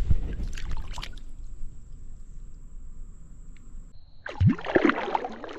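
Water splashing in a shallow creek: a few short splashes at the start, a low trickle, then a louder burst of splashing and sloshing about four and a half seconds in.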